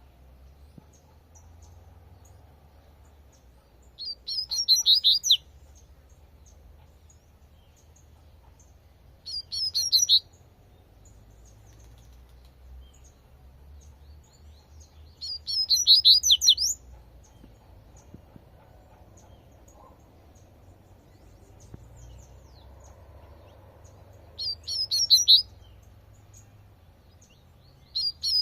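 Double-collared seedeater (coleirinho) singing its 'tui tui' song type: four short phrases of rapid high notes, each about a second long and several seconds apart, over a faint low hum.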